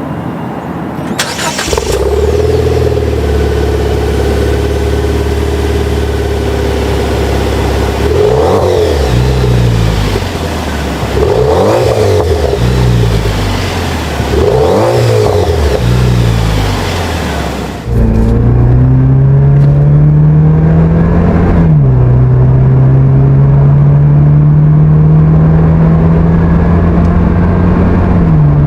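Jeep Wrangler JL's V6 running through an aFe Power Rebel Series cat-back exhaust. It idles, then is revved three times about three seconds apart. After a cut, it pulls under acceleration, its pitch climbing steadily and dropping sharply at each upshift.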